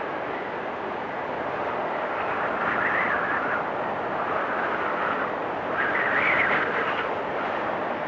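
Blizzard wind blowing steadily, swelling in two gusts about three and six seconds in.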